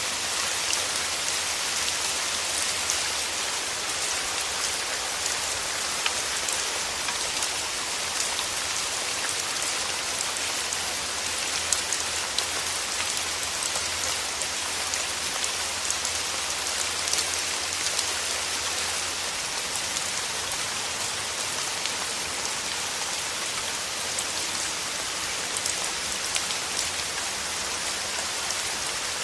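Steady rain falling, a dense even hiss with many close individual drop patters.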